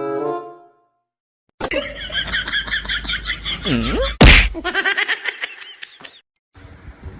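A single loud whack a little past halfway, between stretches of high, wavering voices.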